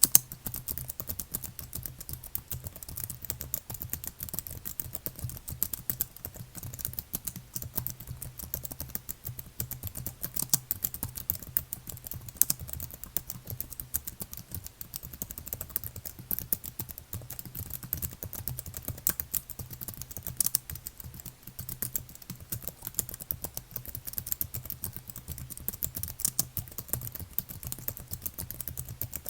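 Continuous typing on a computer keyboard: a dense, uneven stream of key clicks with no long pauses.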